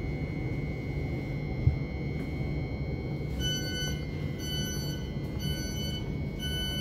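Inside a Thameslink train: a steady low rumble with a constant high whine, and a single sharp knock a little under two seconds in. From about halfway a beep starts repeating roughly once a second, the train's door warning beeps at the station stop.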